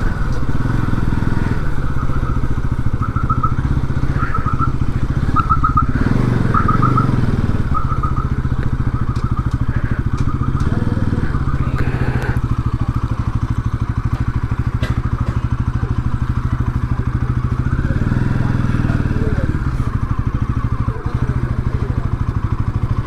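Bajaj Pulsar NS200's single-cylinder engine running steadily as the motorcycle is ridden along at low speed.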